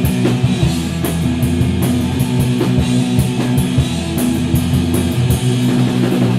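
Rock band playing an instrumental break between sung lines: electric guitar and drum kit, with steady low notes under regular cymbal crashes.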